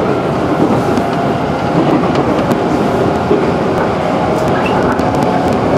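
JR 211 series electric train running at speed, heard from inside the carriage: a steady running noise of the wheels on the rails.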